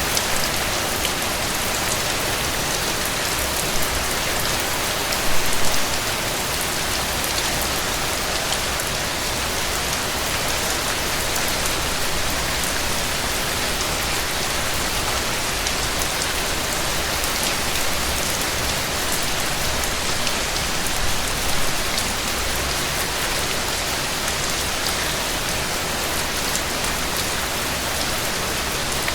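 Heavy rain falling steadily on a surface, a dense hiss with many small drop ticks, and a brief louder spatter about five seconds in and again past twenty seconds.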